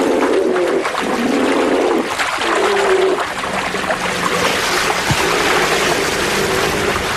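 Rushing river water at a salmon falls, a steady loud wash, with low held tones that come and go over it.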